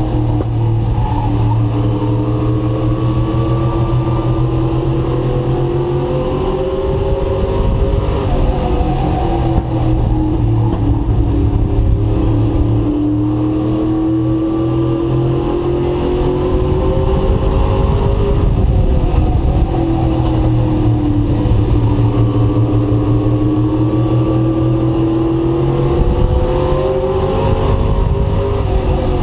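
Race truck engine heard from on board, at racing speed: the engine note climbs steadily for several seconds at a time and drops briefly about every ten seconds as the driver lifts for the corners, three times over.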